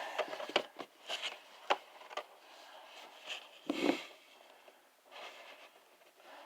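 An action-figure box being handled and opened by hand: scattered sharp clicks and scrapes with rustling of cardboard and plastic packaging, and a louder rustling knock about four seconds in.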